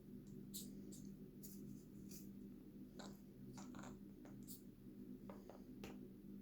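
Faint scattered clicks and scratching, a Quaker parrot's beak and claws working at something, over a steady low room hum.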